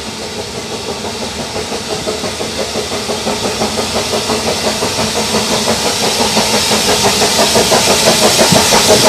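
Narrow-gauge steam locomotive working a train, its exhaust beats coming in a steady rhythm of about three a second with a hiss, growing steadily louder as it approaches.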